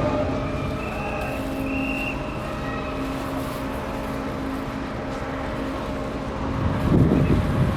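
Steady mechanical hum with several held tones over a low rumble, swelling louder for about a second near the end.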